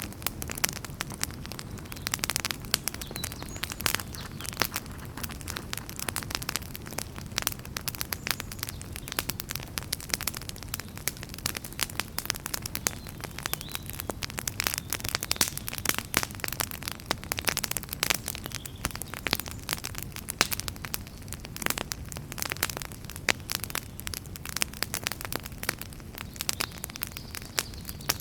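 Wood fire burning in a fireplace: logs crackling and popping in dense, irregular snaps over a steady low rumble of flame.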